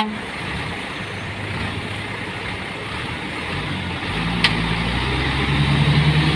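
Heavy truck's diesel engine pulling away on a slippery muddy track, taken gently at low revs, its low note building and growing louder from about four seconds in. There is a short sharp click partway through.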